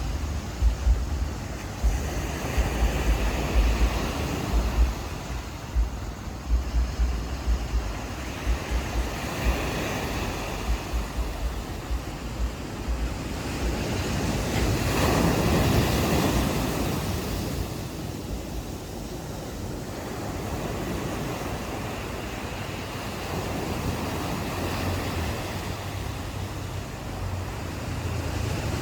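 Ocean waves washing onto a beach, one wave swelling and breaking about halfway through. Wind buffets the microphone in gusty low rumbles during the first third.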